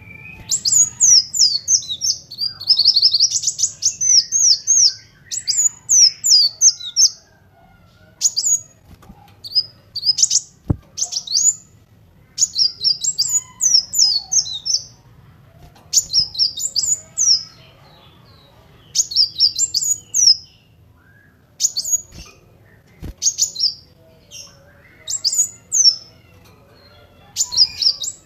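Kolibri wulung sunbird singing in bursts of rapid, high, sweeping chirps. Phrases last one to two seconds, with short pauses between them.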